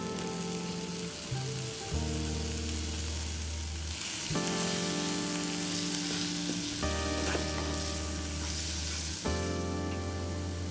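Chickpeas and onions frying in oil in a non-stick pan, a steady sizzle that grows louder for several seconds in the middle as they are stirred with a wooden spatula. Soft background music with held chords plays underneath.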